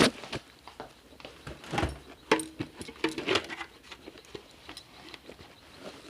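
Scattered handling noises: irregular clicks, knocks and rustles, with two brief squeaks about two and three seconds in.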